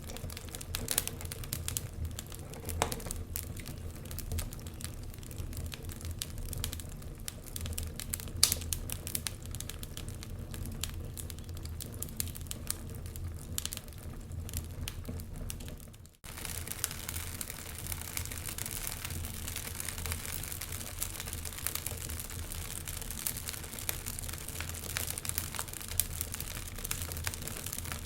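Wood fire crackling and popping, irregular sharp snaps over a steady low rumble. The sound cuts out for a split second about 16 seconds in, then resumes with a denser hiss of crackles.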